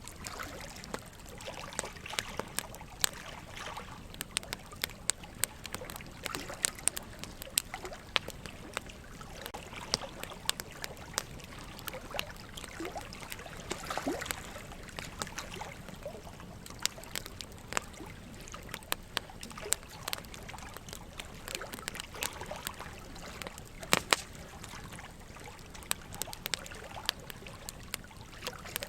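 Wood fire crackling, with many irregular sharp pops over a steady trickle of running water.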